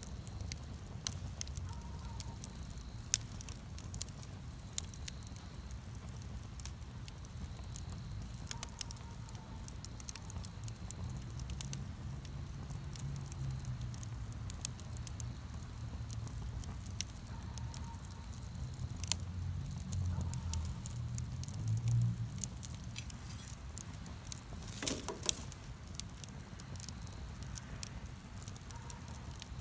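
Wood bonfire crackling, with irregular sharp pops and snaps over a low steady rumble and a brief cluster of louder snaps near the end.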